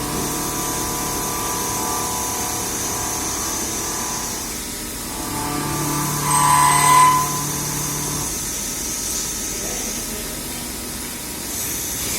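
Machinery running with a steady hum of several tones, growing louder for about a second near the middle.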